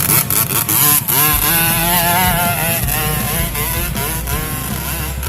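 Trail motorcycle engines revving, their pitch rising and falling unevenly as the bikes ride up a rough hill track, with a few knocks in the first second.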